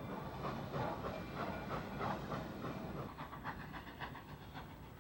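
Steam train running: chuffing and rail clatter that grow quieter about three seconds in.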